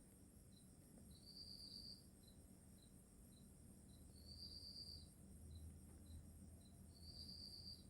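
Faint cricket chirping: a short high trill about every three seconds, with single short chirps about twice a second in between.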